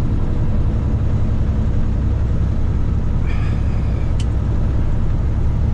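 Cat 3406E inline-six diesel of a Freightliner FLD120 truck running steadily with a low rumble, heard from inside the cab while driving. A short hiss comes about three seconds in, and a click about a second later.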